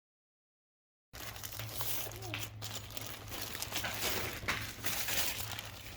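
Plastic packaging crinkling as it is handled and opened, starting about a second in, over a steady low hum.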